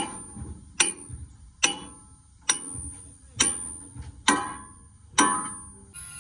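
Hammer blows on steel, struck at an even pace of a little over one a second, each blow ringing briefly; seven strikes in all.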